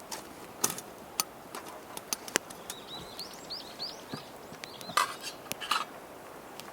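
A bird sings a short run of quick chirping notes in the middle, among scattered sharp clicks and taps. Two louder rustling bursts come near the end.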